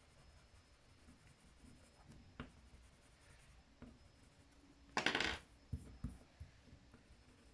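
Faint scratching of wooden coloured pencils on card while blending colours, with a few light ticks and a brief louder scrape about five seconds in, followed by a couple of light knocks.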